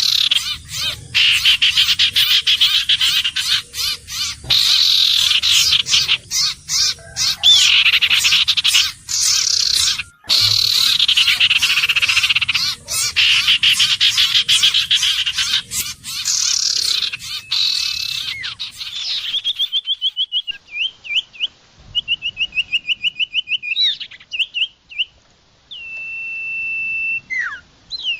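Common iora calling: about 19 s of dense, harsh chattering, then rapid trills of short repeated notes and, near the end, a long level whistle.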